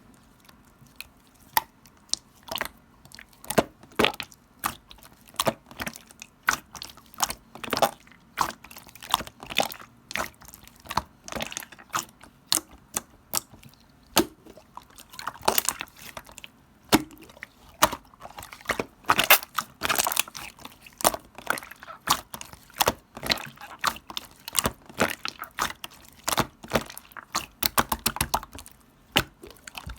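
Clear slime being squeezed, pressed and stretched by hand, giving a dense, irregular run of sharp clicks and pops as air pockets in it burst. The clicking grows louder and thicker about halfway through.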